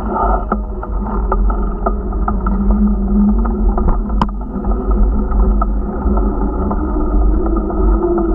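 Steady low rumble of wind buffeting the microphone while riding a bicycle, with road noise, scattered small clicks and a faint steady hum.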